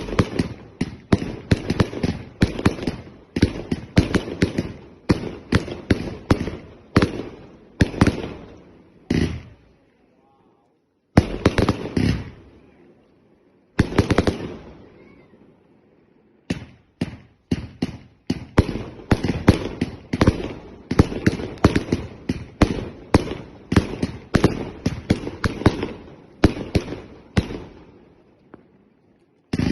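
Consumer firework barrages (cakes) firing a fast run of loud bangs, about two a second. The shots pause briefly twice midway, then resume.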